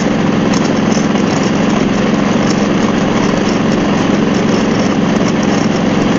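Harley-Davidson Road Glide's V-twin engine running steadily at cruising speed, with wind rushing over the microphone.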